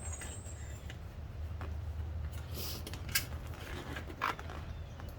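Plastic seat trim clips being pried loose with a tool: a brief scrape, then sharp clicks about three seconds in and again a second later, over a steady low hum.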